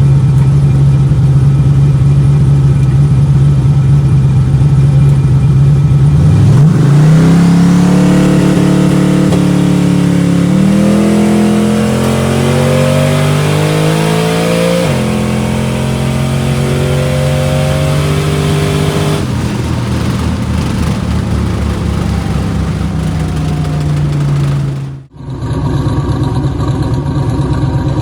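Turbocharged LS 5.3 V8 on low wastegate boost making a drag pass. It holds a steady note, then accelerates hard with rising pitch through two gear changes, then lifts off and falls away. After a sudden cut near the end, an engine runs steadily.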